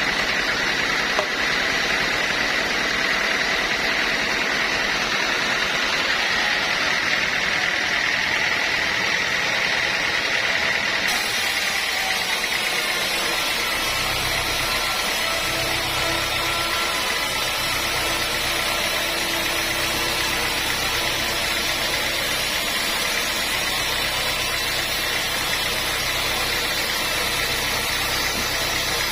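Sawmill machinery running steadily, a continuous mechanical din with a high steady whine; a deeper motor hum joins about halfway through.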